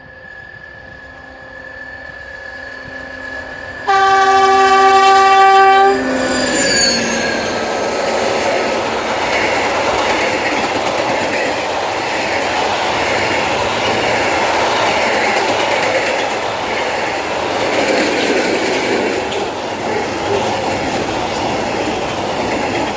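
Class 232 ('Ludmilla') diesel locomotive approaching and growing louder, then sounding its horn for about two seconds, the horn's pitch dropping as it passes. The locomotive and its train then roll past with steady wheel-on-rail rumble and clatter.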